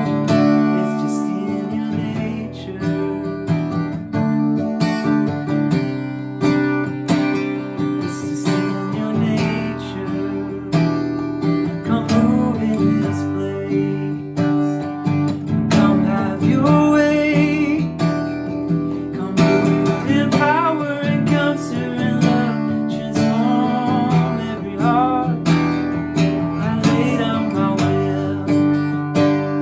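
Acoustic guitar strummed in a steady worship-song accompaniment, with a man's voice singing over it in places without clear words.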